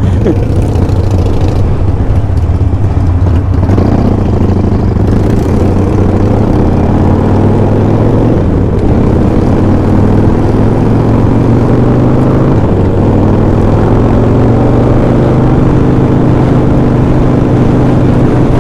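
Harley-Davidson Sportster V-twin engine running at highway speed under a rush of wind noise, the engine note steady with a small change in pitch about two-thirds of the way through.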